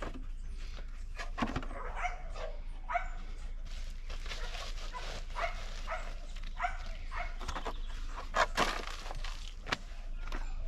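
A dog barking and yipping in short calls at irregular intervals.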